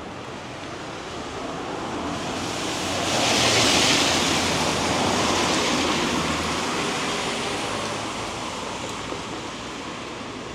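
A vehicle passing on a wet road: the hiss of tyres on the wet surface swells to a peak about three to four seconds in, then fades away, over steady rain noise.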